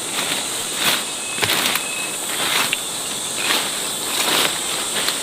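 Insects calling steadily in a high, even band, with a short rustle or scrape about once a second.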